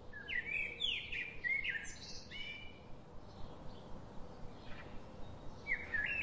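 Birds chirping: a quick run of short, sliding chirps over the first couple of seconds, a lull, then a few more chirps near the end, over a faint steady background hiss.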